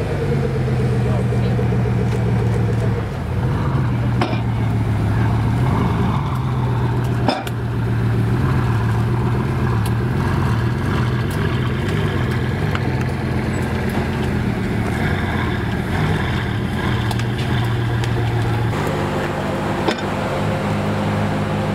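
Bugatti Veyron Grand Sport Vitesse's quad-turbo W16 engine idling steadily as the car creeps up a car-transporter ramp, its pitch wavering slightly. Near the end the sound changes to a different engine idling, the Aston Martin One-77's V12.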